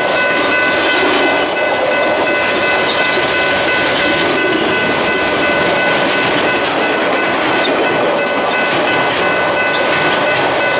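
Train passing close by: a steady rush of wheels on rail with scattered clicks over the rail joints, and a few steady high-pitched tones held the whole time.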